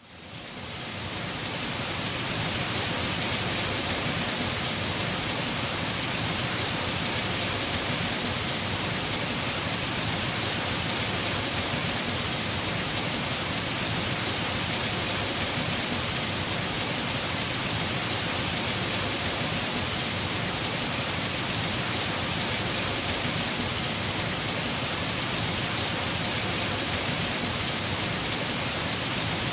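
Heavy rain on a house roof: a steady, dense hiss of many drops, fading in over the first couple of seconds and then holding even.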